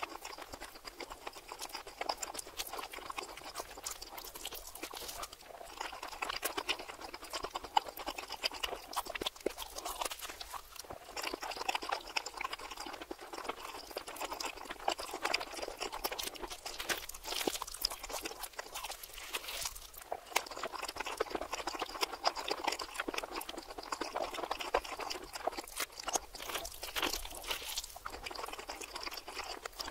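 Close-miked eating of a cheesy Philly cheesesteak on a toasted roll, played in reverse: a dense run of wet mouth clicks, smacking and crunching of bread crust, running backwards.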